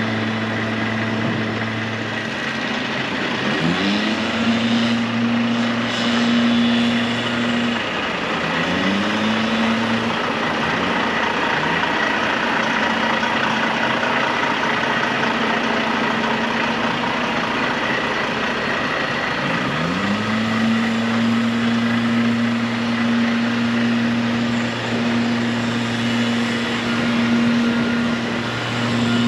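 Volvo D13 diesel engine of a heavy truck running steadily, its pitch sweeping up a few seconds in, dipping and recovering about eight seconds in, then dropping and climbing back up again about twenty seconds in.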